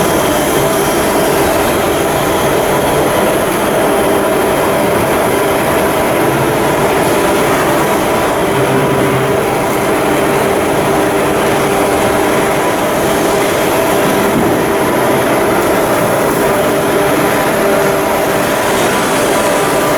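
Steady, loud machinery noise with a constant hum of several tones, unchanging throughout.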